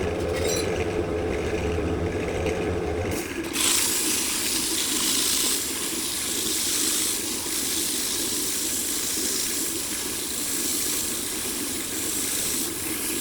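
Workshop machine noise: a motor hum for about the first three seconds, then a steady hiss for the rest.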